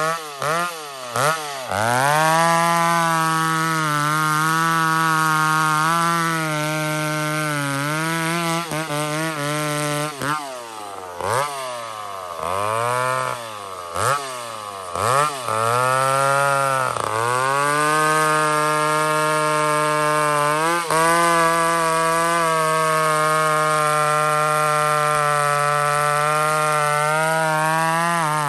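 McCulloch 850 two-stroke chainsaw running at full throttle, cutting a big log. Its pitch drops sharply and recovers several times in the first half as the chain takes load, then holds steady at high revs. The carburettor's high-speed jet has been turned a little richer.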